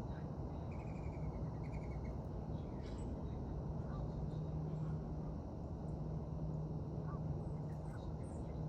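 Faint bird calls over a steady low hum and rumble, with a quick run of chirps about a second in and a few scattered calls later.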